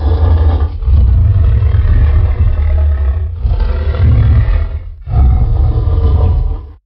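Designed dinosaur roars for a Carcharodontosaurus, layered from King Kong, gorilla and big-cat recordings. Four deep, rumbling roars come one after another, the longest about two and a half seconds. The last one cuts off just before the end.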